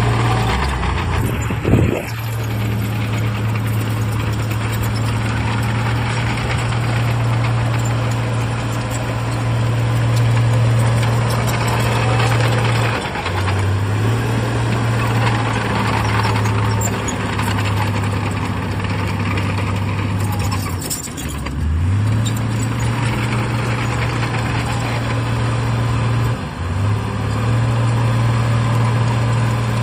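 Heavy diesel engine of earthmoving machinery running under load. Its steady note dips in pitch and recovers three times, as the engine is pulled down and picks back up. There is a single sharp knock about two seconds in.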